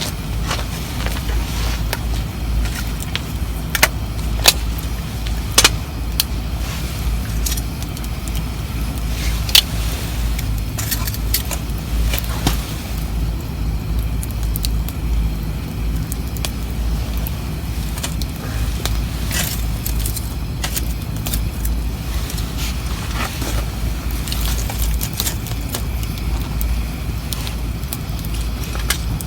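Wood campfire crackling and popping in irregular sharp snaps, over a steady low rumble.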